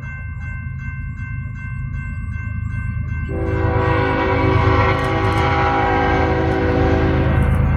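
Diesel locomotive approaching with its bell ringing and its engine rumbling; about three seconds in, its multi-note air horn blows a long chord, and the sound grows louder as the train nears.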